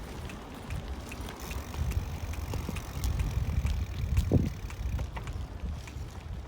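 Low wind rumble on the microphone while moving outdoors, with scattered small clicks and rattles and a louder knock about four seconds in.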